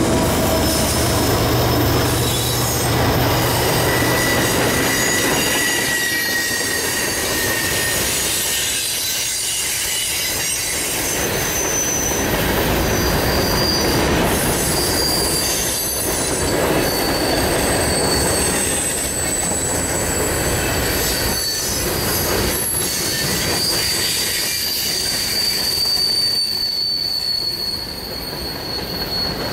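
Union Pacific freight train passing on a curve. The diesel locomotives' engines hum low for the first few seconds, then the freight cars roll by with a steady rumble and high-pitched, drifting wheel squeal from the curved track.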